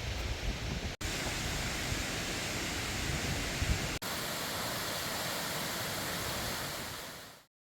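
Steady, even rushing hiss spread across low and high pitches, like running water or wind. It is broken by two abrupt cuts about one and four seconds in, and fades out to silence near the end.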